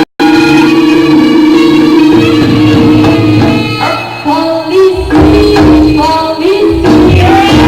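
Live Javanese jaranan music: a band plays sustained pitched tones, then a singer's voice comes in about four seconds in, joined by heavy drumming about a second later. A brief dropout cuts the sound just after the start.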